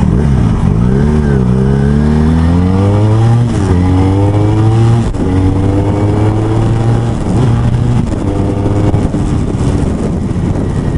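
Motorcycle engine accelerating up through the gears from the rider's seat, its pitch climbing and then dropping at each upshift about 1, 3.5 and 5 seconds in, before settling into a steady cruise.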